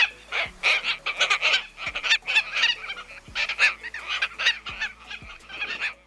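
A bird calling: a quick run of harsh, raspy calls, several a second.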